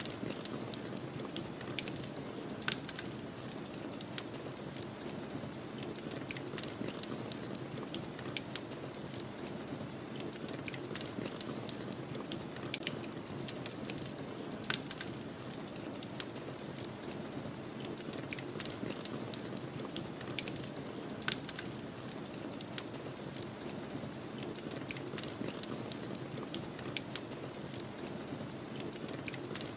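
Wood fire crackling with frequent irregular sharp pops over a steady low rush of snowstorm wind.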